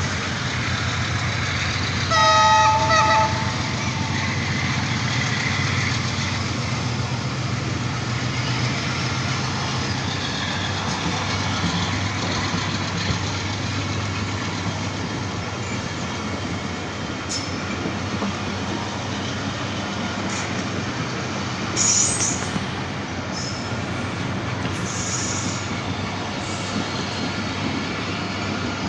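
AGE30 diesel-electric locomotive sounding one short horn blast about two seconds in, its engine running as it passes, followed by the passenger coaches rolling through with steady wheel clatter on the rails. A brief sharp metallic screech sounds about two thirds of the way through.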